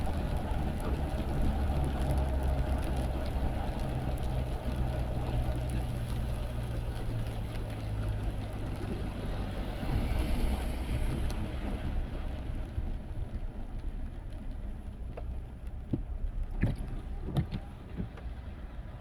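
Car cabin noise while driving: a steady low engine and tyre rumble that eases off about halfway through as the car slows, then a few sharp clicks near the end.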